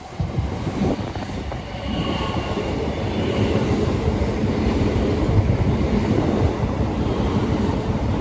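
Train running close by: a heavy rumble that builds over the first two seconds and then holds steady, with a faint high squeal around two to three seconds in.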